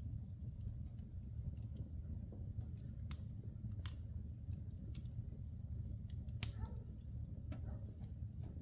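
Logs burning in a wood-burning fireplace: a steady low noise of the flames with scattered sharp crackles and pops, the loudest about six and a half seconds in.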